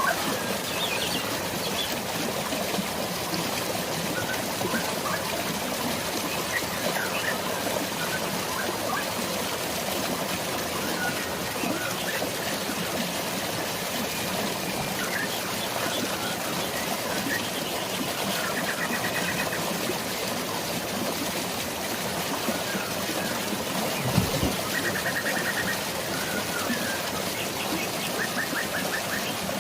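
Steady rush of running water and light rain, with birds chirping over it and now and then a quick trill of rapidly repeated notes. A single low thump sounds about four-fifths of the way through.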